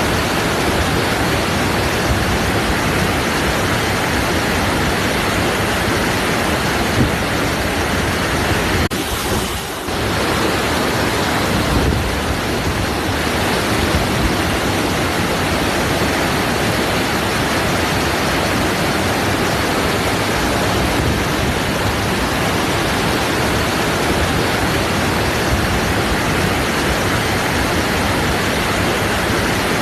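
Waterfall: a steady, loud rush of falling water, dipping briefly about nine seconds in.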